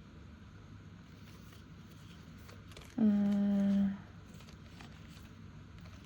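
A woman's brief closed-mouth hum, one steady held note about a second long, sliding down slightly as it begins, about three seconds in.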